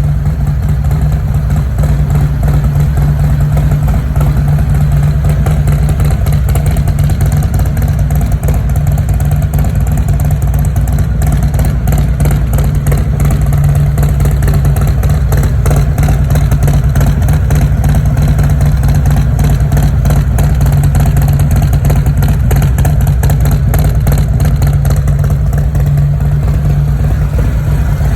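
A Harley-Davidson Milwaukee-Eight 114 V-twin, fitted with a Zippers Redshift cam and a D&D exhaust, idling steadily at operating temperature.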